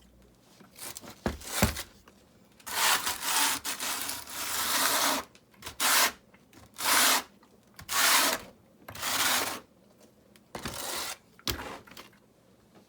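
Repeated rough scraping strokes of a tool working mortar between river rocks, about eight strokes of a second or less each, with a couple of sharp knocks about a second and a half in and another near the end.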